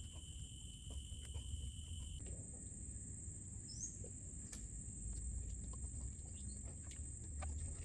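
Forest insects calling with steady high-pitched buzzing tones. One chorus stops about two seconds in while a higher one carries on, over a low rumble and scattered faint clicks.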